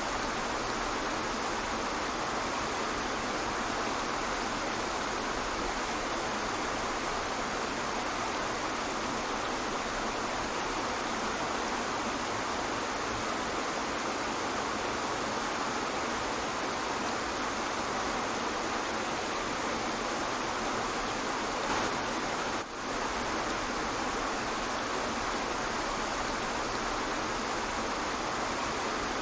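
Waterfall: a steady, even rush of falling water, with one brief dip in level about three-quarters of the way through.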